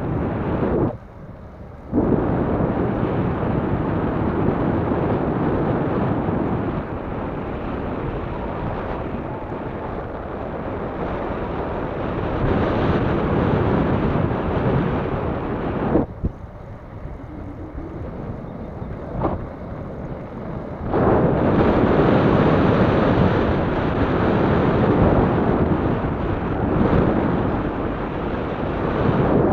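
Wind buffeting the microphone of a camera on a moving bicycle: a loud, steady rush of noise. It drops away briefly about a second in, and again from about 16 to 21 seconds.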